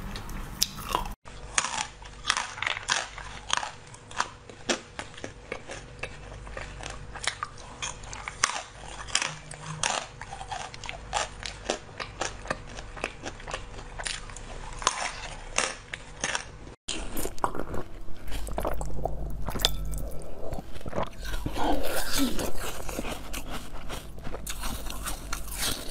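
Close-miked eating sounds: a person biting and chewing with many wet mouth clicks and smacks, first a white strawberry, then soft marshmallows, then a blue jelly-like sweet. The sound breaks off abruptly twice where one clip gives way to the next.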